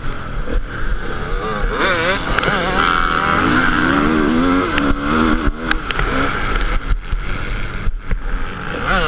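Motocross motorcycle engine being ridden hard, its pitch rising and falling again and again as the rider opens and closes the throttle, over a steady noisy rush and low rumble.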